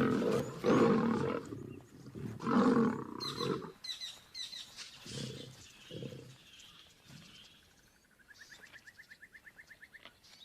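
Two male lions snarling and roaring as they fight, loud and rough for the first few seconds, then two shorter growls. Near the end, a faint, rapid, even trill.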